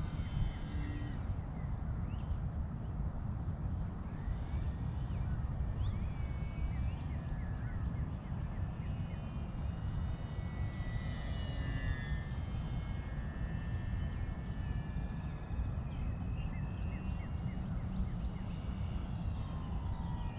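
Electric motor and propeller of a Volantex Sabre 920 RC airplane whining in flight, the pitch gliding up and down with throttle and passes; the whine fades for a few seconds early on and then comes back. A steady low rumble of wind on the microphone lies underneath.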